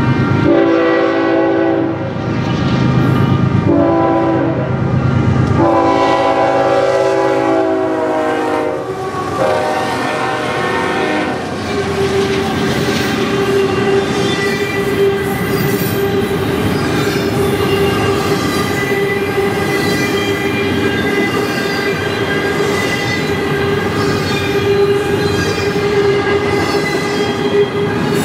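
A freight locomotive's multi-chime air horn sounds several blasts over roughly the first nine seconds, the last one the longest. Then a long double-stack container train rolls past with wheel clatter and a steady high squeal from the wheels.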